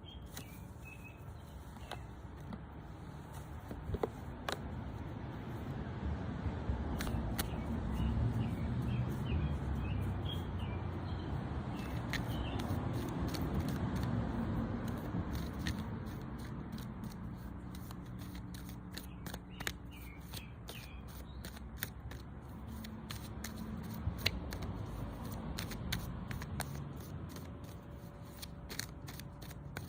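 A deck of oracle cards being handled and shuffled, giving many small clicks and scrapes. A passing car's low rumble swells and fades through the middle, and a bird chirps a few times.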